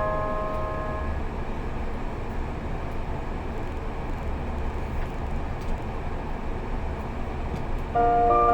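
Steady low rumble of running noise inside a train carriage. The last notes of an onboard chime fade out in the first second, and a new chime melody of bell-like tones starts near the end.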